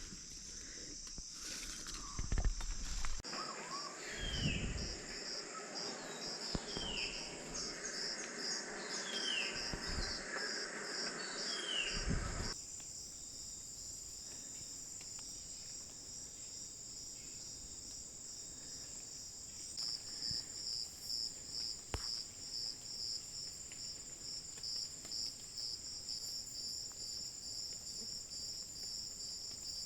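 Rainforest insect chorus: crickets and other insects trilling in a steady high band, with a fast pulsing chirp. In the first half, four short calls sound a couple of seconds apart over some rustling. About twelve seconds in, the sound changes abruptly, leaving only the insects.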